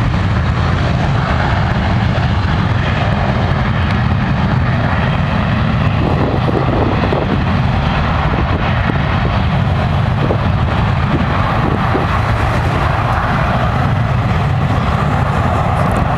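Jet airliner's engines running at takeoff thrust: a loud, steady, deep rumble that holds level throughout.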